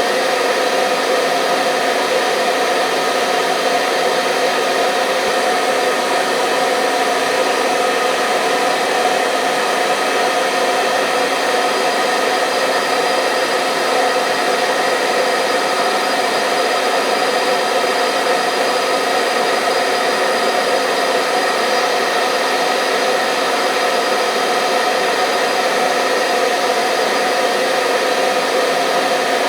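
Hair dryer running steadily: a constant motor whine and airflow hiss that does not change.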